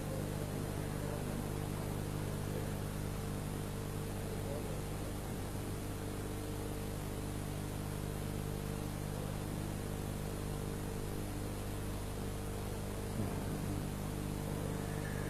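Steady electrical mains hum with a constant hiss, from the sound system or recording chain.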